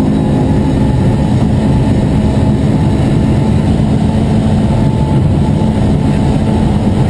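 Ford Escort MkII rally car's engine running loud at fairly steady revs, heard from inside the cabin while the car drives along.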